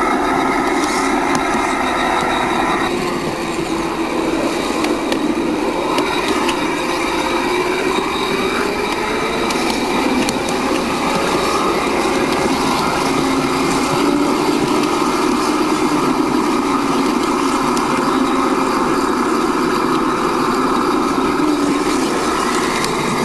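Battery-electric 5-inch gauge Maxitrak Jubilee locomotive running under load, its sound system playing a Sentinel diesel shunter engine note. The note is steady, with a change about three seconds in.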